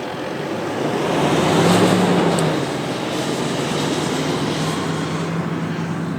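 Diesel 4x4 SUV engine working hard on a soft offroad trail, swelling to its loudest about two seconds in, then holding a steady drone.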